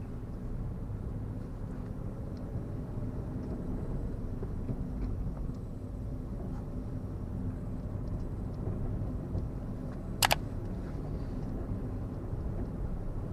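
Car cabin noise while driving: a steady low engine hum and road rumble, with one short, sharp double click about ten seconds in.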